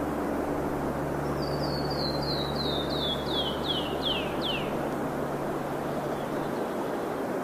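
A songbird sings a run of about ten short down-slurred whistled notes, each a little lower than the last and coming slightly faster, over a steady outdoor rush of wind or surf. A low steady hum stops near the end.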